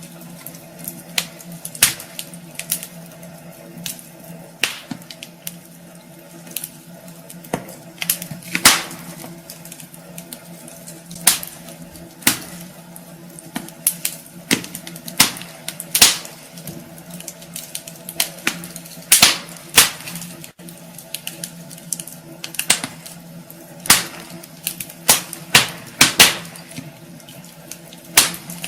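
Wood fire crackling in a fireplace, with irregular sharp pops and snaps, a few of them loud, over a soft steady hiss and a faint low hum.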